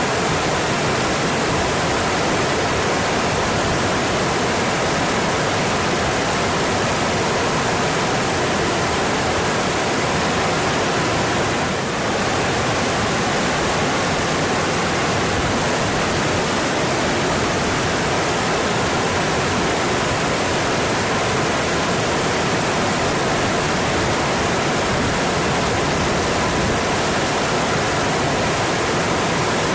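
Mountain stream rushing steadily over rocks, with a brief slight dip in level about twelve seconds in.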